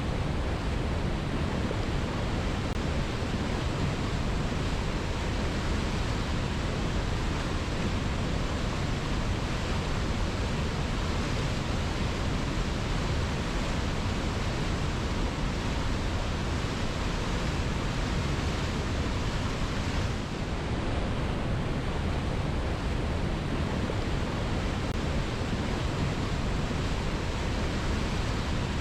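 Waterfall: water cascading over rocks, a steady, deep, even rush.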